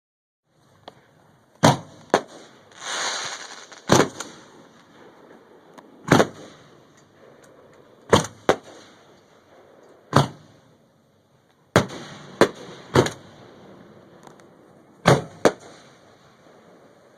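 Fireworks going off: about a dozen sharp bangs, a second or two apart and often in close pairs, with a brief hissing rush about three seconds in.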